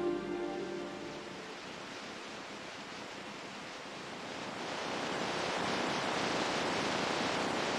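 Ocean surf: waves washing in as a steady rush of noise that swells louder about halfway through. Music fades out at the very start.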